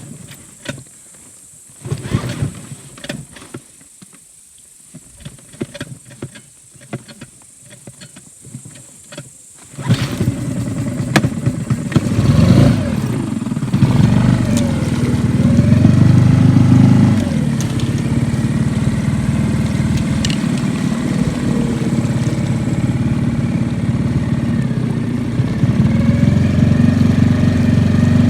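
A few scattered knocks, then a small boat's outboard motor comes in abruptly about ten seconds in, revs up and down briefly, and runs steadily and loudly.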